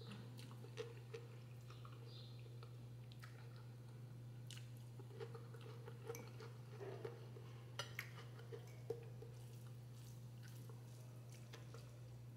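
Faint chewing of instant noodles, with scattered small wet mouth clicks and smacks, over a steady low hum.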